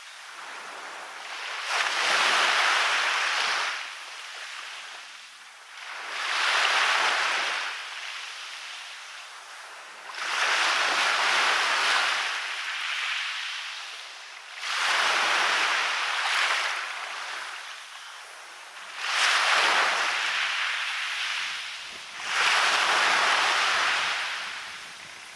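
Waves breaking on a beach and washing up the shore. Six swells, about one every four seconds, each comes in sharply and then fades away.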